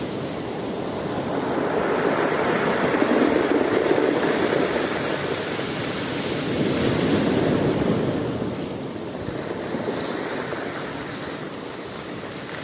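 Sea surf: waves washing in and rolling up the shore, swelling twice, a few seconds apart, then easing off.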